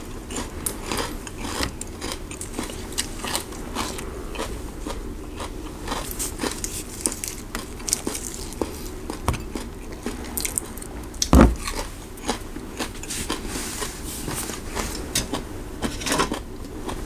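Close-up chewing and crunching of raw fresh greens, with many short crisp clicks and smacks. One low thump about eleven seconds in is the loudest sound.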